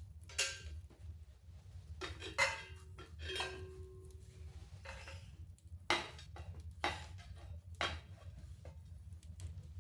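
Several sharp metallic clinks and clanks, about six spread over ten seconds, one leaving a short ringing tone.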